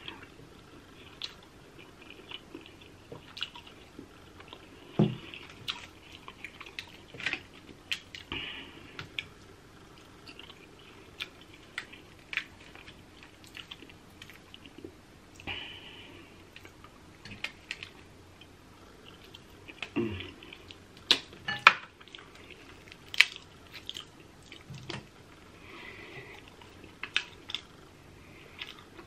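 Close-miked eating of a crab seafood boil: wet chewing and lip smacking, broken by irregular sharp clicks, the loudest cluster a little after the middle.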